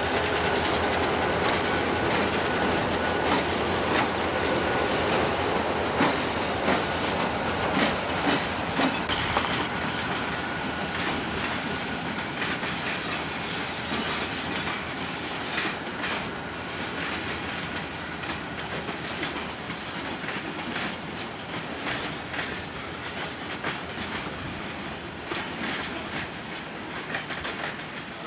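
Train of diesel locomotives and freight cars rolling slowly past, with engines running and steel wheels clicking over rail joints. A thin high squeal is heard at first, and the sound grows gradually quieter as the train moves off.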